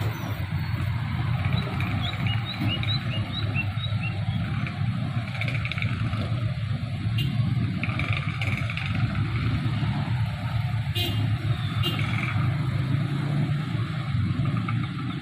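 A steady low engine rumble with some clatter, and a string of faint short high chirps in the first few seconds.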